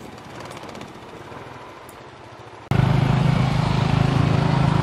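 Motorcycles running at low speed, faint at first; about two and a half seconds in the sound jumps suddenly louder to a close, steady engine drone.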